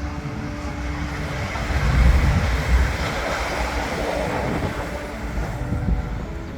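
A train passing close by, a loud rushing rumble that swells to a peak about two seconds in and then slowly eases off.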